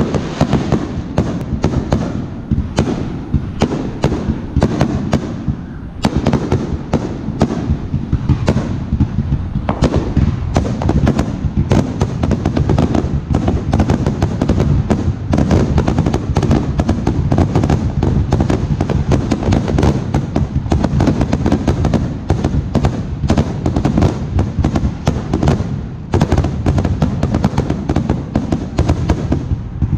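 Aerial fireworks shells bursting in quick succession: a dense run of sharp bangs, several a second, over a continuous low rumble.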